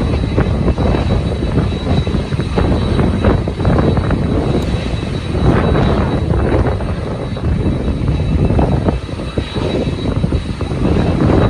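Jet airliner engines running, a steady high whine over a deep rumble, with strong wind gusting on the microphone.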